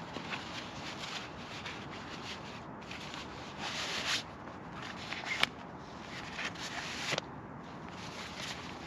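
Rustling and scraping, with a louder scrape about four seconds in and a single sharp click about halfway through.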